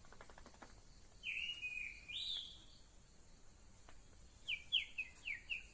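Bird calling: a pair of high chirps, each dropping in pitch, then near the end a rapid run of about five short falling notes. A brief fast clicking comes at the very start.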